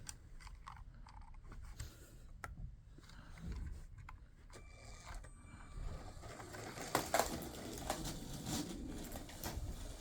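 Plastic K'nex pieces clicking, scraping and clattering as a toy helicopter is knocked about to break it, with a cluster of sharper knocks about seven seconds in.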